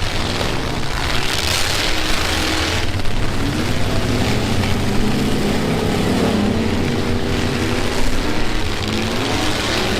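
Several pickup truck engines running hard in a demolition derby, revving up and down over one another. A burst of rushing noise comes about one to three seconds in.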